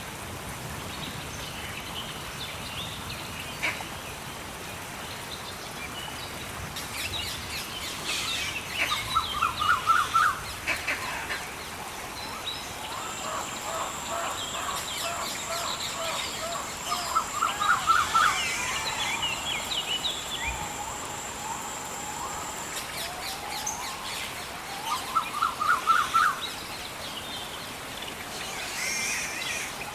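Rainforest birdsong: one bird repeats a fast run of short rising notes three times, about eight seconds apart, among scattered chirps from other birds. A steady high thin tone runs through the middle, over a faint steady hiss.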